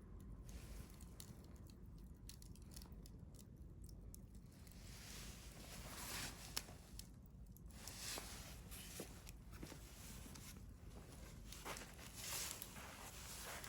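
Wood fire crackling, with scattered small pops and one sharper pop about six and a half seconds in.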